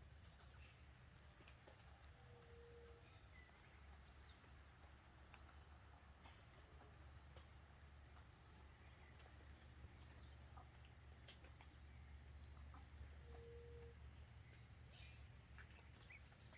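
Crickets trilling in a faint, steady, high-pitched chorus, with a few scattered bird chirps and two brief low tones, one a couple of seconds in and one near the end.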